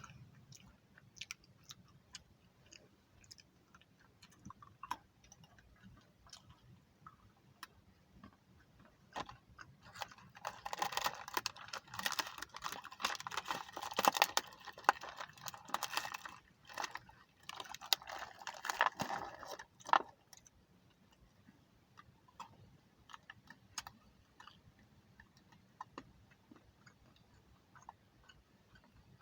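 A person eating close to the microphone: scattered crunchy chewing clicks, with a dense stretch of crackling and rustling for about ten seconds in the middle.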